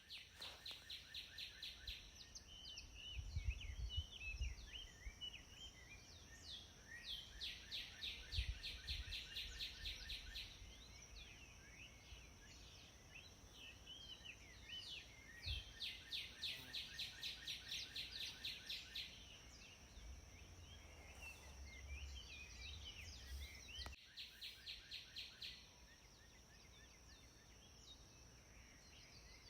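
Birds singing, with long runs of high, evenly repeated chirps at about five a second and other scattered calls, over a steady high-pitched whine.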